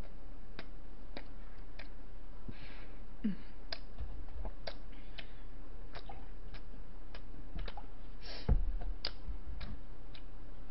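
Close-miked eating sounds: irregular small wet clicks of the mouth and chewing on a piece of bread, over a steady low hum. A dull low thud sounds about eight and a half seconds in.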